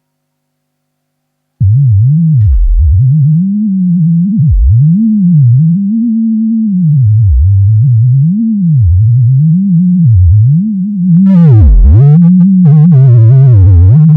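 Sonified EEG of a sleeping pigeon's brain: a loud, deep electronic tone that starts suddenly after silence about a second and a half in, then sweeps up and down in slow arcs of about a second each. Near the end, higher wavering tones join it.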